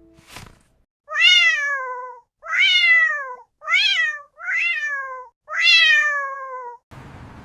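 A cat meowing five times in a row, each meow starting high and sliding down in pitch. A brief sharp swish comes just before the first meow.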